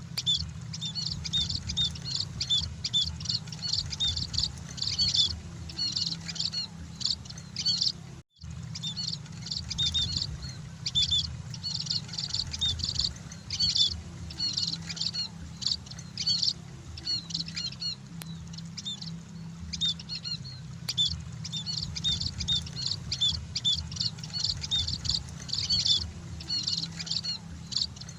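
A flock of munias (emprit) chirping continuously in rapid, high, overlapping twitters over a steady low hum, with a brief break about eight seconds in.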